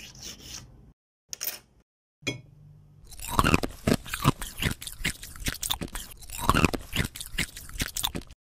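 A person biting and chewing crunchy food: a fast run of crisp crunches that starts about three seconds in and goes on to the end.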